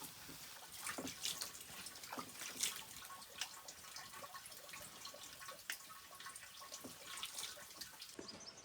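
Water splashing and dribbling in small, irregular splashes, as at a tap or basin.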